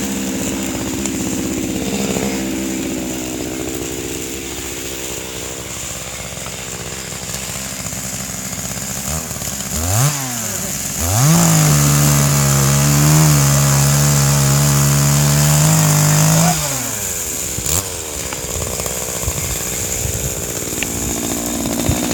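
Two-stroke chainsaw running at idle, blipped up twice, then held at full throttle for about five seconds before dropping back to idle.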